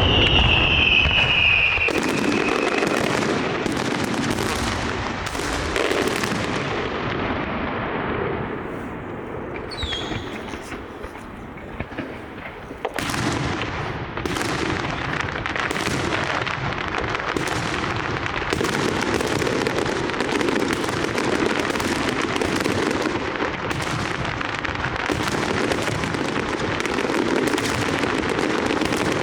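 Large fireworks display: a rapid, continuous barrage of shell bursts and crackle. A falling whistle sounds at the start and another about ten seconds in. The barrage eases briefly around then, and from about thirteen seconds on a dense, steady crackle takes over.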